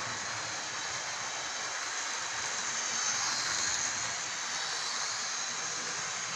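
Model train running along the track: a steady whirring hiss of its electric motor and wheels on the rails, swelling a little about three seconds in.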